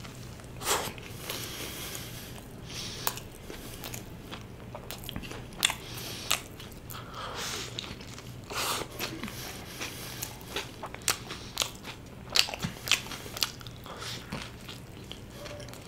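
A person chewing and biting into a burger close to the microphone: irregular wet mouth clicks and soft crunches, with a few sharper bites scattered through.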